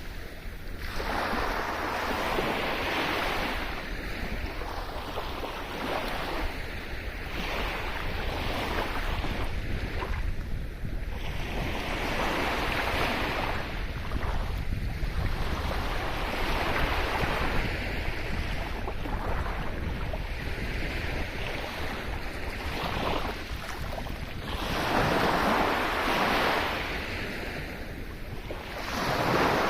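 Sea waves breaking and washing up the shore, the surf swelling and falling away every few seconds, with a steady low rumble of wind on the microphone underneath.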